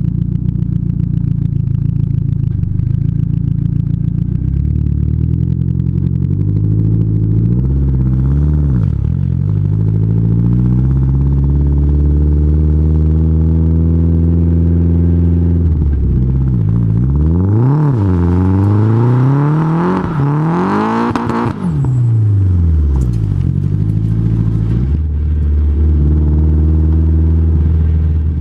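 Nissan S14 Silvia's SR20DET turbocharged four-cylinder engine heard through its exhaust, revved up and down several times: a long climb and hold in revs, a drop, then a run of quick sharp blips before it settles lower, with one more blip near the end.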